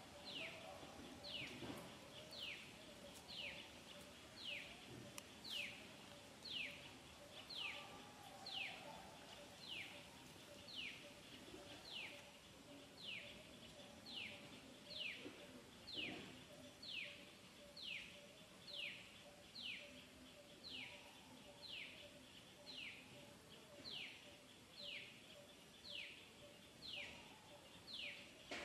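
A bird calling a short, falling whistled note over and over, evenly about once a second.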